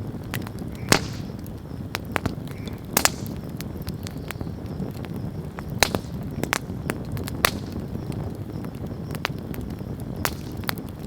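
Wood campfire burning, with a steady low rumble and frequent sharp crackles and pops. The loudest snaps come about a second in, about three seconds in and around six seconds.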